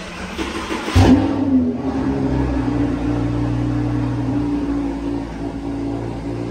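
Lamborghini engine started with the key: a brief crank, then it fires with a loud rev flare about a second in and settles into a steady idle.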